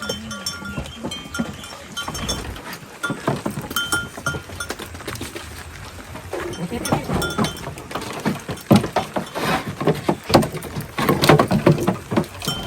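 Goats calling amid a busy run of clicks and knocks, which grows louder and denser in the second half.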